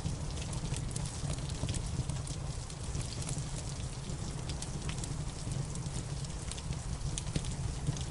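Wood fire crackling in a fireplace, with scattered sharp pops at irregular moments, over a steady hiss of rain and a low, even rumble.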